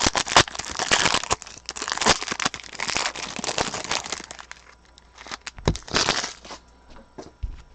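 Trading cards and their packaging being handled: dense rustling and crinkling for about four seconds, then a second short burst a little later.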